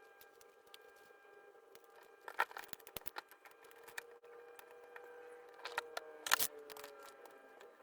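Sharp clicks and clatters of small objects being handled, a cluster about two and a half seconds in and a louder one near the end, over a steady pitched hum that drifts slightly lower in pitch near the end.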